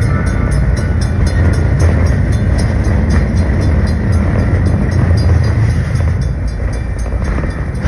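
Passenger train running, heard from on board the moving car: a steady low rumble of the wheels and car.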